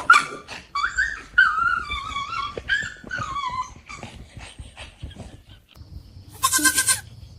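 A dog whining in high, wavering whimpers, followed near the end by a short, louder cry.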